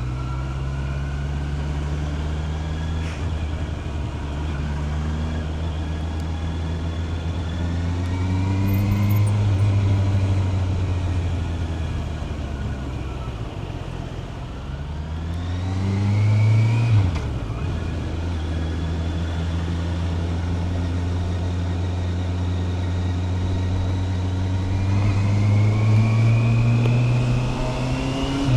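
Honda CB650R's inline-four engine under way, running steadily with its pitch climbing as it pulls. About 17 seconds in the note drops abruptly as it shifts up a gear, then holds steady before climbing again near the end.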